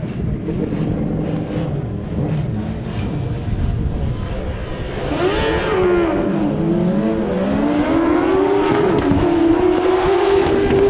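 Drag-racing vehicle's engine accelerating hard on a run. Its pitch climbs, drops briefly about six seconds in, then climbs again and holds high near the end.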